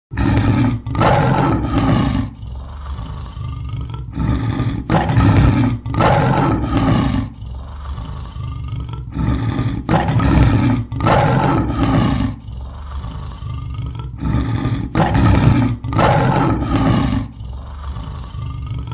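Tiger roaring again and again, a long string of deep roars about one a second.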